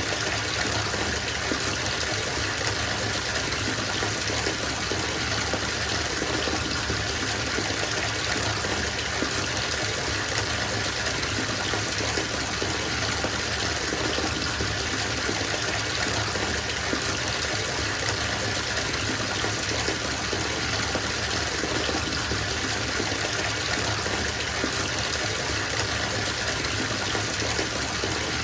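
Water running from a tap into a bathtub as it fills, a steady rushing gush with no change in level.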